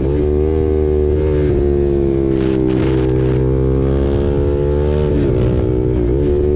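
KTM RC 390's single-cylinder engine through an aftermarket SC-Project exhaust, running under way at a steady, fairly constant pitch. The pitch dips briefly and recovers a few times: near the start, just before 3 seconds in, and around 5 and 6 seconds in.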